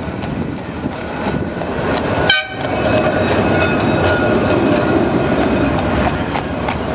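Blackpool heritage tram running past with a steady rumble, giving one short toot about two seconds in; a steady whine follows from the running gear.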